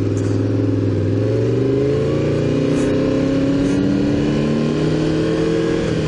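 Honda VFR750's V4 engine under way, its pitch climbing slowly as the motorcycle gathers speed, with a brief dip near the end like a gear change. Steady wind rush is heard under it.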